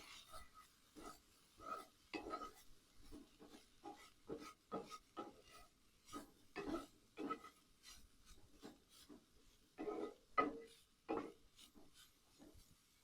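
A run of short, irregular scrapes, about two a second, with no steady rhythm.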